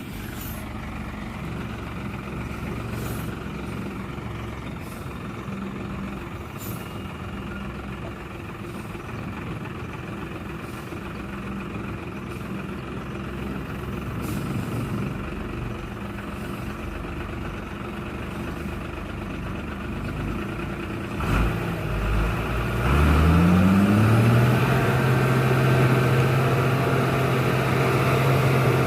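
Tata 1613 tipper truck's diesel engine running at low revs, then about 23 seconds in revving up and holding at higher revs, louder.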